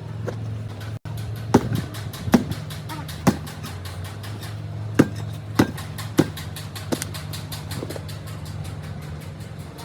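Steady low mechanical hum with about seven sharp, briefly ringing knocks at irregular intervals.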